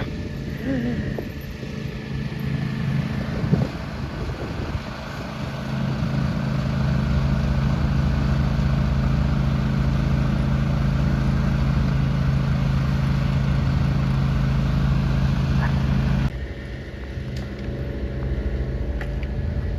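Snowblower engine running steadily, with a steady hum that grows louder and fuller about five seconds in. About three seconds before the end it cuts off suddenly to quieter background noise.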